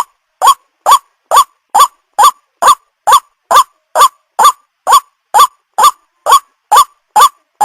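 White-breasted waterhen (ruak-ruak) calling: one short rising note repeated steadily, a little over two a second.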